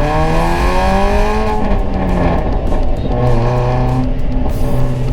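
Modified exhaust of a Hyundai i20 accelerating hard: the engine note climbs steadily, then breaks up into a rougher patch around a gear change and comes back at lower revs.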